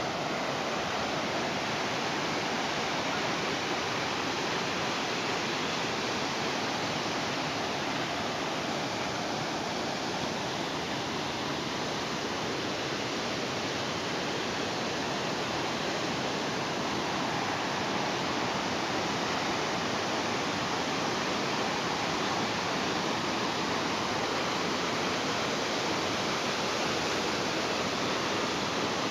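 Mountain waterfall rushing steadily, an even wash of falling water with no breaks.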